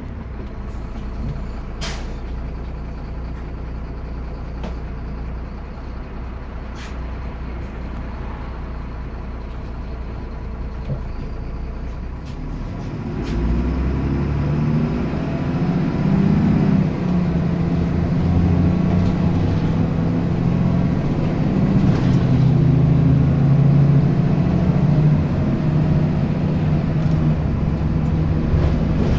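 Diesel bus engine running at a steady low idle, then about thirteen seconds in working harder and louder as the bus pulls away. A few sharp clicks come in the first half.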